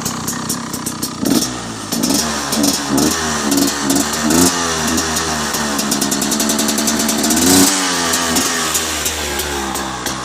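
2013 Husaberg TE250 two-stroke single-cylinder enduro engine, through its stock exhaust, idling and then revved in a run of quick throttle blips. A longer rev climbs to a peak and drops sharply back to idle about eight seconds in.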